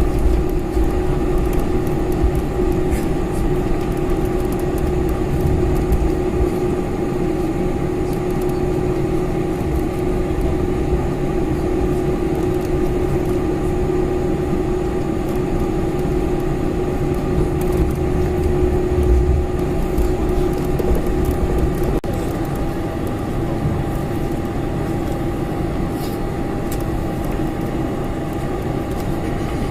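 Cabin noise inside a Boeing 747-400: a steady engine drone with two held tones over a low rumble. The level drops slightly about 22 seconds in.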